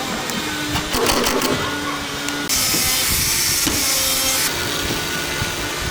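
Woodworking workshop machinery running, with a few sharp clicks about a second in and a burst of hiss lasting about two seconds midway.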